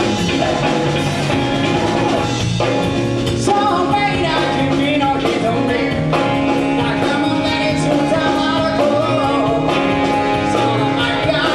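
A live band playing a rock-and-roll number, with a steady drum kit beat, guitar and a singing lead voice.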